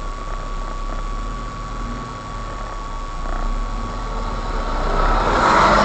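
A car engine idling in slow traffic, heard from inside the car through a dashcam, under a steady thin tone. A rushing noise swells about five seconds in and is loudest at the end.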